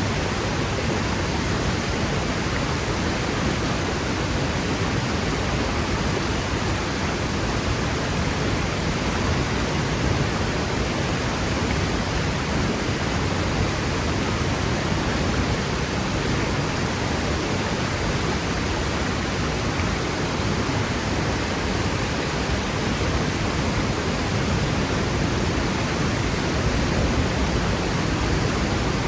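Waterfall plunging into its pool: a steady, even rush of falling water with no breaks.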